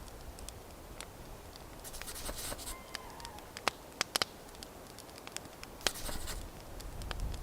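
Campfire crackling: scattered sharp pops and snaps, with a couple of brief rustling bursts.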